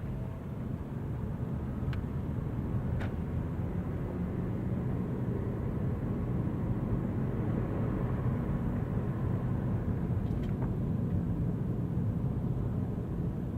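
Steady low rumble of a car driving on a rainy road: engine and tyre noise, with a few faint clicks.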